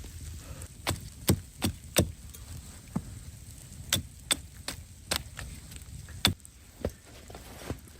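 An irregular series of sharp knocks, about a dozen in all, with the loudest about a second in, around two seconds in and past six seconds, over a low steady rumble.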